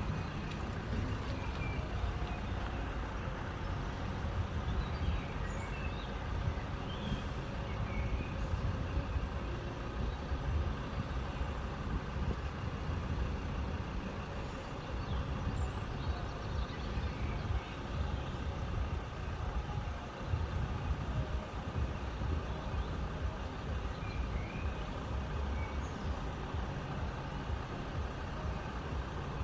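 Steady low rumble of road vehicle engines idling, with faint chirps scattered high above it.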